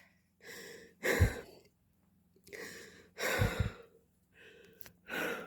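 A person breathing hard and sighing, about six heavy breaths, while struggling waist-deep in snow. There are a couple of short low thumps during the breaths.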